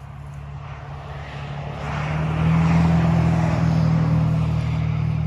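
A motor vehicle or aircraft engine drones as it approaches, swelling from faint to loud over the first half and holding loud: a steady low hum under a rushing noise.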